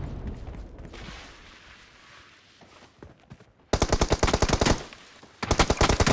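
Automatic gunfire sound effects in an online shooter game: a rapid burst of about ten shots a second starting about three and a half seconds in, and another rapid burst starting near the end, after a stretch of fading sound and near quiet.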